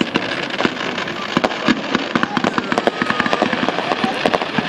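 Aerial fireworks going off in a dense, irregular run of bangs and crackles, several a second.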